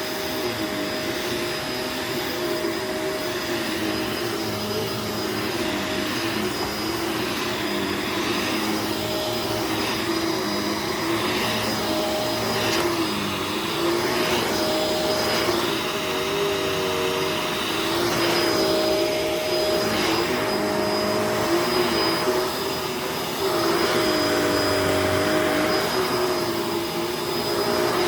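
Bagless upright vacuum cleaner running steadily over dirty carpet, its motor tone wavering slightly up and down as it is pushed back and forth. It gets a little louder near the end.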